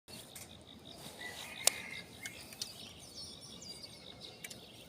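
Outdoor ambience of insects trilling steadily and birds chirping, with a single sharp click about a second and a half in.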